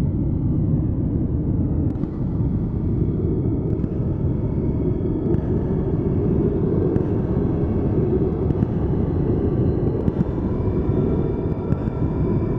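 Strong wind buffeting the microphone, a steady low rumble with faint high-pitched tones above it.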